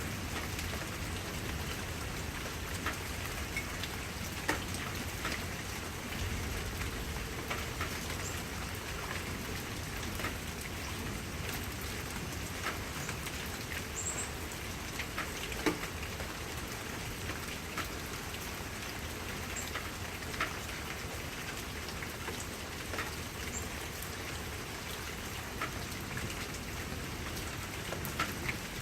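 Steady rain falling, with individual raindrops striking a surface in scattered sharp taps.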